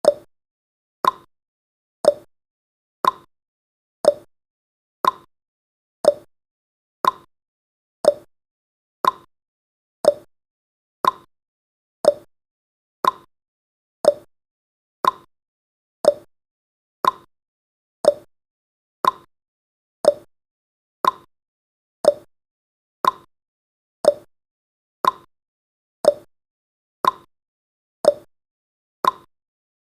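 Clock-tick sound effect of a countdown timer, ticking once a second with short, crisp ticks and silence between them.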